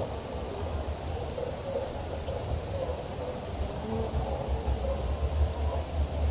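A small bird repeating short, high chip notes, one every half second to a second. A faint steady high-pitched buzz and a low rumble run beneath them.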